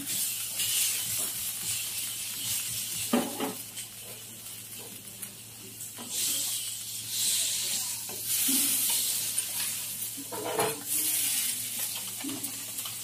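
Jianbing pancakes sizzling on a round hot griddle, a steady hiss that swells and fades, with a couple of brief clinks.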